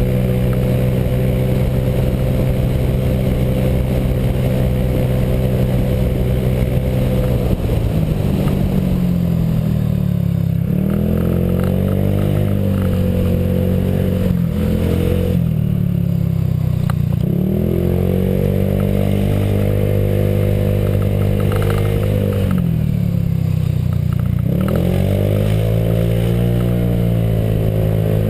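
Honda PCX scooter's single-cylinder four-stroke engine, fitted with a J.Costa variator and aftermarket exhaust, running while ridden. It holds a steady note for the first several seconds, then its pitch repeatedly dips and climbs back again, several times.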